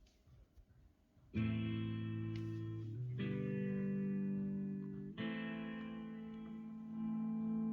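Song intro on guitar with effects: three chords struck and left to ring, the first about a second and a half in after near silence, played back through Braun L620/1 speakers driven by a Yamaha CA-V2 amplifier.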